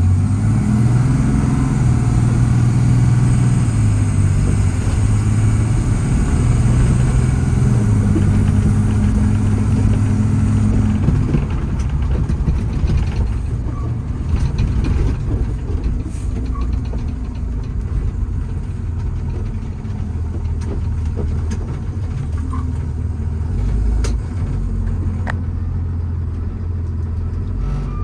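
The Paccar PX7 inline-six diesel of a Kenworth T270 truck pulling under load, its engine note stepping between speeds as the Allison automatic shifts for the first ten seconds or so, then running lower and steadier.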